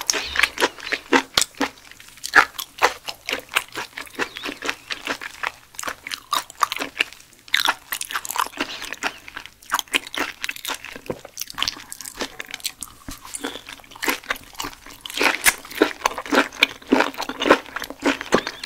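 Close-miked chewing of raw mullet gizzard: a continuous run of irregular crunching bites and chews, several a second.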